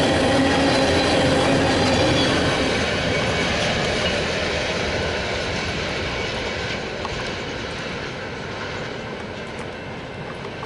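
Freight train cars rolling past on the track, the wheels clattering with a faint squeal early on. The sound fades steadily as the train moves away.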